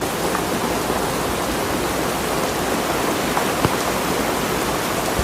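Heavy rain falling steadily: a dense, even hiss, with a few sharp ticks of single drops striking, one clearer about three and a half seconds in.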